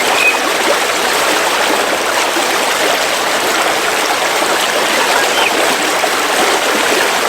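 River water flowing in a steady rush, with a couple of brief, faint bird chirps above it.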